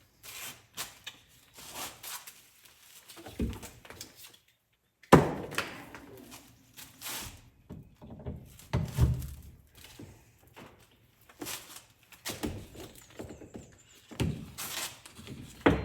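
Knocks, thunks and clatter of hardware being handled and fitted during the install, irregular throughout, with one sharp, loud thunk about five seconds in.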